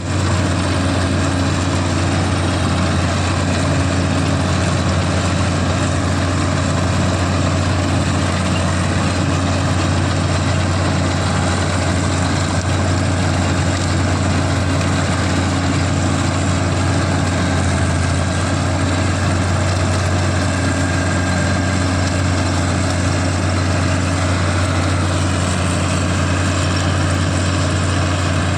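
CLAAS combine harvester's diesel engine and machinery running steadily, with a constant low drone.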